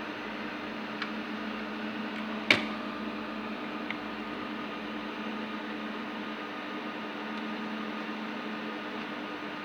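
Steady hum of electric cooling fans with a low droning tone, and a single sharp click about two and a half seconds in, with a couple of fainter ticks.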